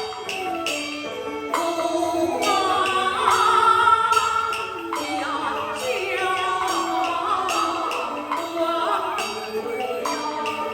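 Beiguan Fulu-style opera music: a wavering sung melody over a sustained pitched accompaniment, with sharp percussion strikes about a second and a half in, around five seconds and near the end.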